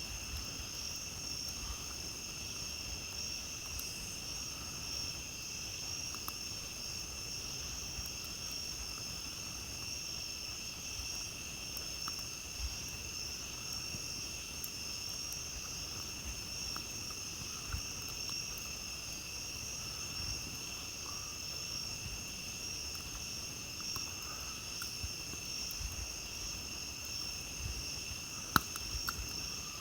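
A steady, high, unbroken chorus of night insects, with faint scattered crackles from a campfire and one sharper pop near the end.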